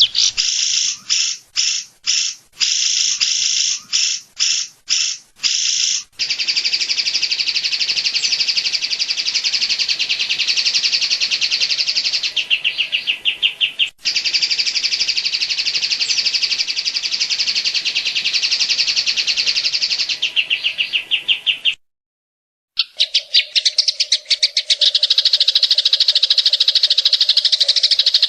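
Cucak ijo (green leafbird) song in rapid 'tembakan' bursts in the cililin style: a string of short choppy notes, then a long, very fast unbroken trill. About 22 s in the audio cuts out for a moment, and a second rapid trill follows with a steady low hum beneath it, an edited splice.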